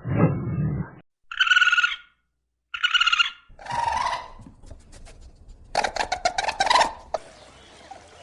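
A string of different animal sounds cut one after another: a low rough sound dying away, two short high-pitched calls about a second apart, another call, then a rapid rattle of clicks, ending in a steady hiss.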